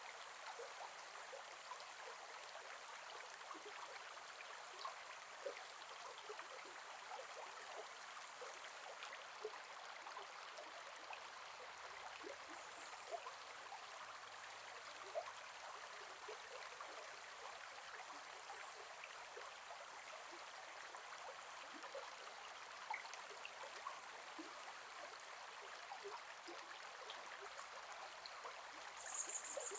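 Gentle forest river flowing: a steady, faint rush of water with many small splashes and trickling ticks scattered through it. A brief high chirp sounds near the end.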